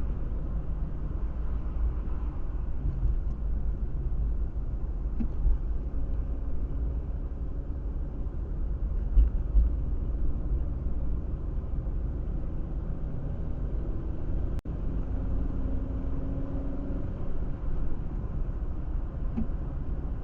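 A car driving, its steady low road rumble and engine drone picked up by a dashcam microphone, with a momentary dropout in the sound about two-thirds of the way through.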